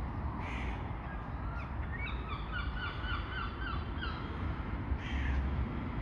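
A bird in the trees gives a quick run of about eight short, repeated calls, about four a second, starting about two seconds in. Under it runs a steady low rumble.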